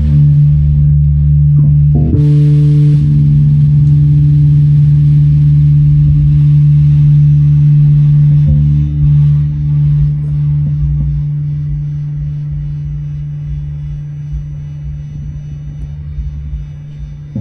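Live improvised instrumental music: guitar and bass holding a low sustained chord, with a note change about two seconds in, then slowly dying away over the second half.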